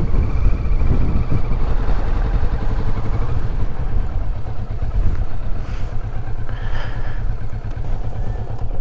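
Motorcycle engine running steadily with a low, pulsing rumble.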